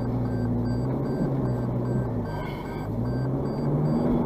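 Four-wheel-drive's engine heard from inside the cabin while driving off-road, the revs rising and falling a few times over the rumble of tyres and body. A faint high-pitched beep repeats rapidly and evenly in the background.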